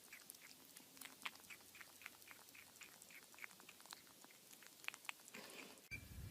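Faint chewing: a quick run of small crunching clicks, several a second, from a pet eating. A low hum comes in near the end.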